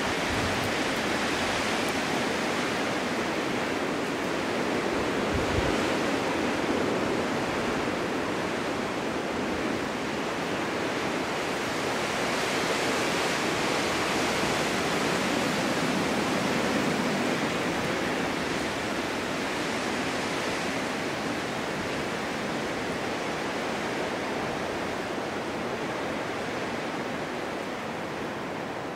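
Snowstorm wind rushing steadily through snow-covered forest, swelling and easing a little.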